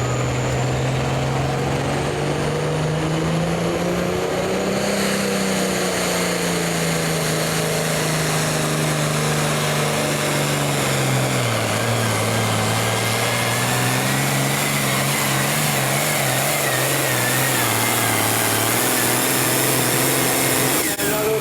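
A pulling vehicle's engine running hard under load over heavy noise. Its pitch climbs for the first few seconds, sags, drops sharply about halfway through, then picks up a little and holds.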